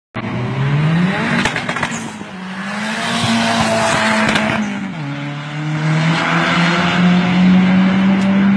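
Turbocharged Fiat Punto GT engine revving hard. The revs climb in the first second and hold high for several seconds, then dip about five seconds in and climb slowly again, with a few short sharp cracks along the way.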